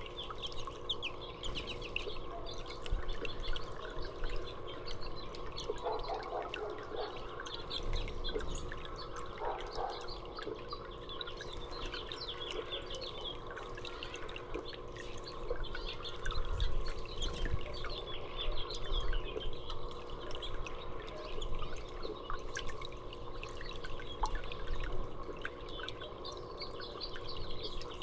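Small songbirds chirping over and over in quick, short calls, with trickling, dripping water beneath them and a faint steady hum.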